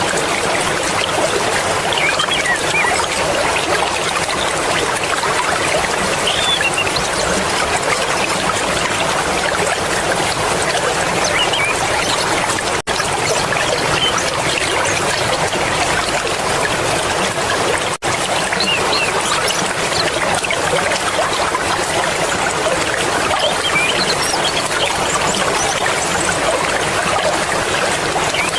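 Fast-flowing mountain river water rushing and splashing steadily, with small bright splashes and gurgles over the top.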